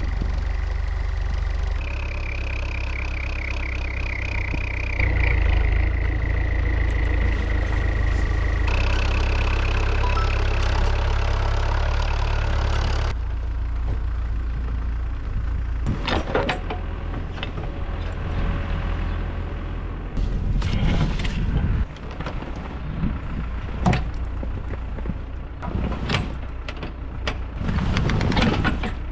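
Heavy loader's diesel engine running hard with a high hydraulic whine that shifts pitch a few times while lifting a heavy load. About halfway through the engine drops lower and scattered clanks and knocks follow.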